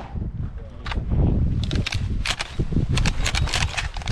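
Wind rumbling on the microphone, with a run of sharp clicks and knocks, denser in the second half.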